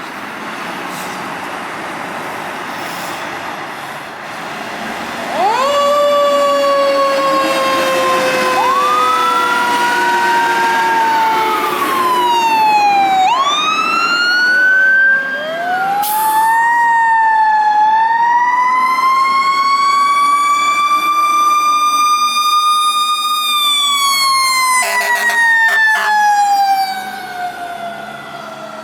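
Fire apparatus sirens wailing as the trucks pass, starting about five seconds in: several overlapping siren tones that each slide up over a second or two and then wind slowly down. A few short horn-like blasts sound near the end as the sirens fade away.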